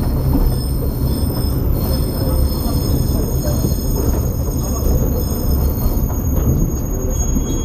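KiHa 47 diesel railcar running, heard from inside the car: a steady low rumble of the engine and wheels on the track, with faint high thin tones above it.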